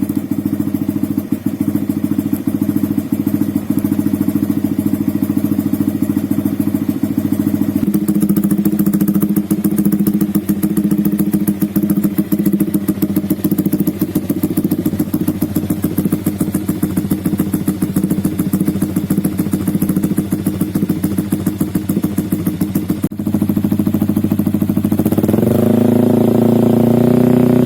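Yamaha R15 V3's 155 cc single-cylinder engine idling steadily through an R9 GP SS aftermarket exhaust, then the revs rise about 25 seconds in and are held higher near the end.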